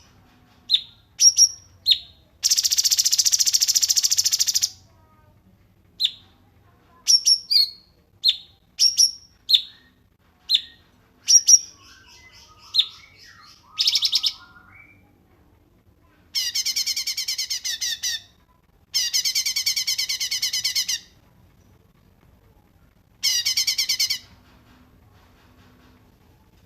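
Songbird song: high, sharp single chirps scattered between several rapid trilling bursts of about two seconds each, the longest near the start and two more in the second half.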